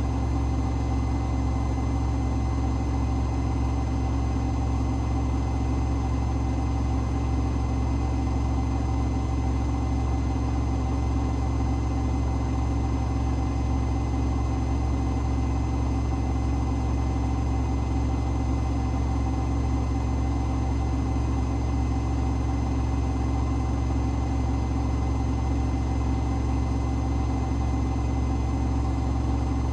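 Hoover H-WASH 500 washing machine running late in its Cotton 60 cycle, with a loud, steady motor hum and whir that holds at one pitch, as when the drum spins at constant speed.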